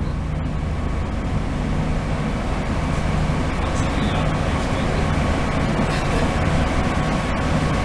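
Northern Ireland Railways diesel multiple unit train running: a steady low hum with a rumble and even noise.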